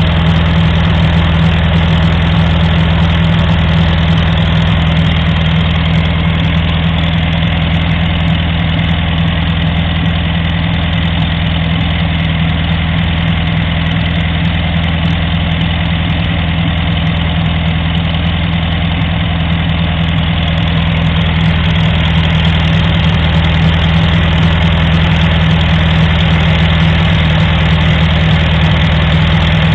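Air-cooled 1600cc dual-port VW Beetle flat-four on dual EMPI 34 EPC carburettors, running through an EMPI exhaust, idling steadily.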